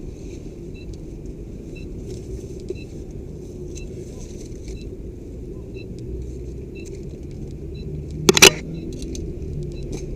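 Steady low rumble of wind and movement on a body-worn microphone, with faint short electronic beeps about twice a second, typical of the game's timer-bomb prop counting down. About eight seconds in there is one loud, brief knock.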